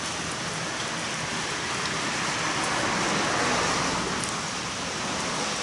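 Steady rain falling, with a broad rushing noise that swells in the middle and fades again.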